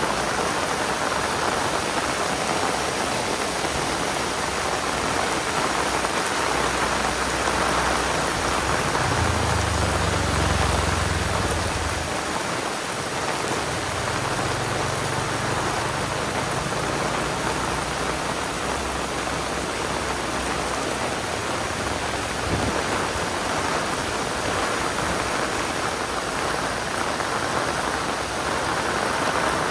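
Heavy rain pouring steadily. A low rumble swells up about seven seconds in, is strongest a few seconds later, and fades out by around eighteen seconds.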